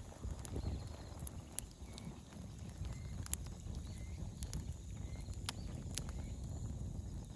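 Bonfire of dry firewood crackling: sharp, scattered pops about once a second over a steady low rumble.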